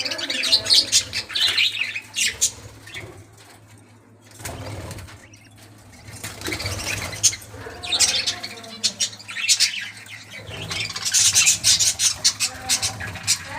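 Budgerigars chirping and chattering, with wing flutters, in bouts; the chatter drops to a lull a few seconds in, then builds again.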